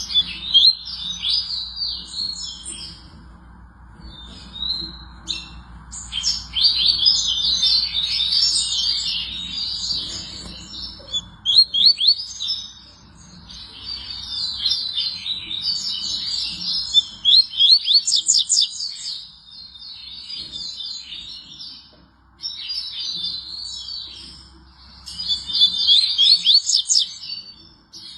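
Double-collared seedeater (coleiro) singing: rapid, high twittering phrases of quick slurred notes, repeated in bursts of a few seconds with short pauses between them.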